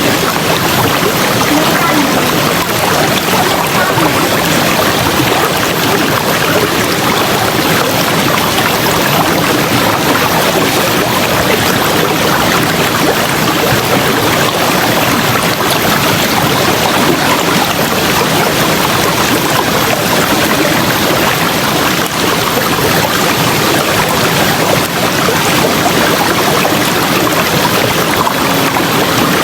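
River water flowing: a loud, steady rush of water that doesn't change.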